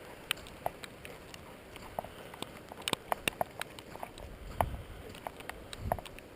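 Footsteps crunching on ice and crusted snow: irregular sharp clicks and crackles, with a few duller thuds near the end.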